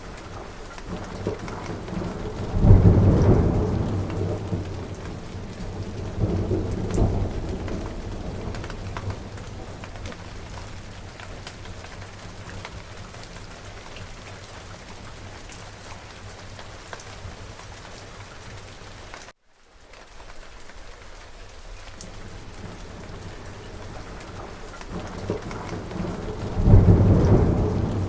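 Steady rain falling with thunder: a loud thunderclap and rumble about three seconds in, a second rumble a few seconds later, and thunder building again near the end. About two-thirds of the way through, the sound cuts out for an instant and the rain comes back.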